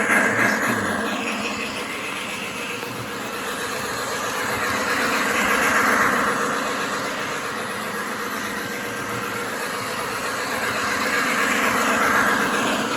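Lionel model Union Pacific locomotive running on its track: a steady rolling rumble that swells twice, about six seconds in and again near the end.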